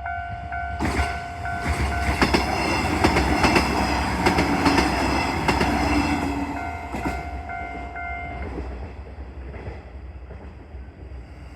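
JR Shikoku 1500 series diesel railcar passing over a level crossing, its wheels clattering over the rail joints and its diesel engine rumbling. Over it the crossing's warning bell dings about twice a second. The train noise fades off, and the bell stops about three quarters of the way through.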